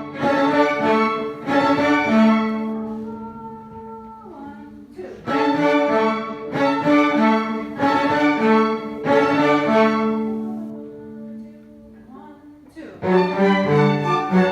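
Bowed string ensemble of violins and cellos playing sustained chords. The music swells and dies away twice, and a downward slide comes just before each restart.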